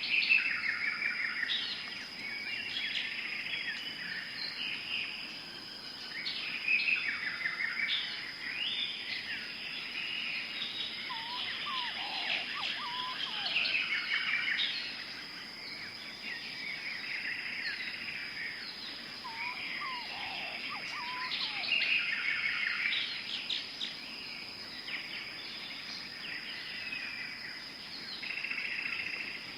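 Tropical forest ambience: many birds chirping and trilling over one another, with a few lower gliding calls twice, over a steady high-pitched drone.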